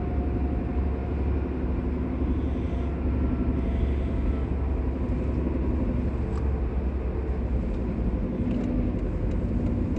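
Steady low drone inside a Mercedes-Benz W203 at cruising speed, with road and tyre noise: the hum of a worn rear wheel bearing, rising and easing a little as the car weaves. When steering right the hum goes quieter, which the driver takes as the sign that the right rear bearing has failed.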